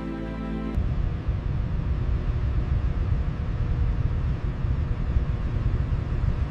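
Background music cuts off about a second in, giving way to a steady low rumbling noise with no clear tone.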